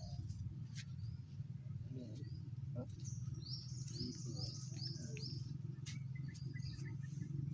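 A bird chirping: a quick run of about five short high notes, each sliding down in pitch, about three seconds in, with a few scattered softer chirps and clicks, over a steady low hum.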